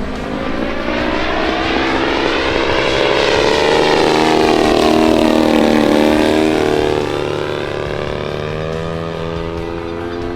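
The 120cc DA two-stroke petrol engine of a giant-scale RC Yak 54 aerobatic plane running in flight. Its pitch climbs, sweeps down about six seconds in, then holds steadier and quieter, loudest in the middle.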